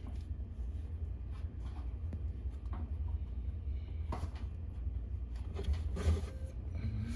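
Handling noise from a phone camera being moved about inside a washing machine drum: a steady low rumble with a few soft knocks and rubs, the clearest about four and six seconds in.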